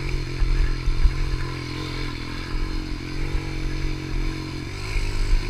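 Pit bike engine running at a steady speed, its pitch dipping and climbing back shortly before the end, with irregular low thuds underneath.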